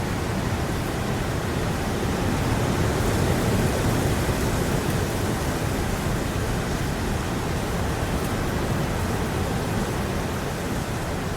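Heavy rain pouring down steadily: a dense, even hiss with a deep rumble underneath.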